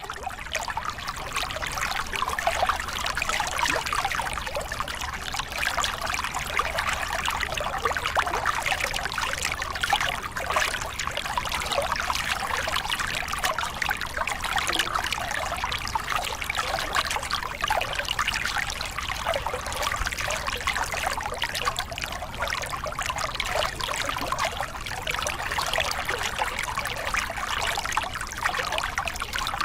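Small river cascade: water pouring and splashing over rocks in a steady, dense rush.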